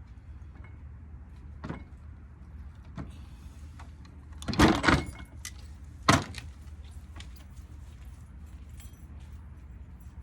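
Metal parts of a ceiling fan motor being handled during disassembly: small clicks, a loud clatter about halfway through and a sharp knock a moment later, over a steady low hum.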